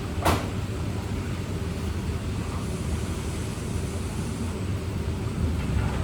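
Steady low background rumble, with one sharp knock about a third of a second in.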